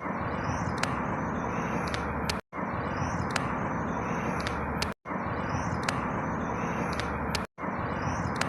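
Outdoor ambience: a steady rushing noise with faint high chirps and ticks over it, the same short stretch repeating about every two and a half seconds with a brief dropout to silence between repeats.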